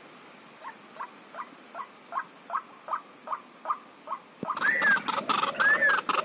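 Animal calls: a run of short chirps, about two and a half a second and growing louder, then, a little past four seconds in, a sudden louder series of rising-and-falling calls about once a second with clicking noise among them.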